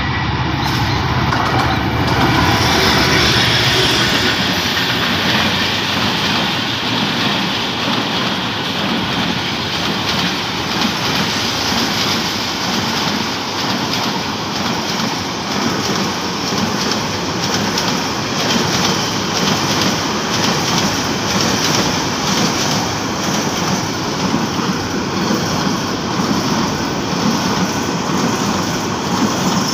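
A diesel locomotive hauling a long container freight train passes close by. The engine is loudest a few seconds in, then the wagons' wheels keep up a steady rumble and clatter on the rails.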